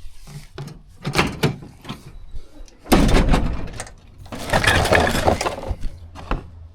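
A series of loud crashing, breaking sounds: a short crash about a second in, a louder one about three seconds in, and a longer clattering crash near five seconds.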